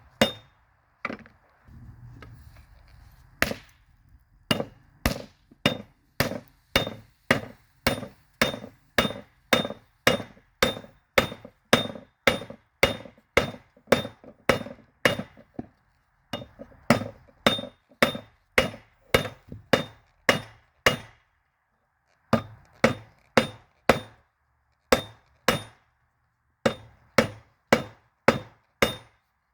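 Hammer forging a railroad spike, sharp ringing metal-on-metal blows at about two a second. The blows come in runs with brief pauses between them.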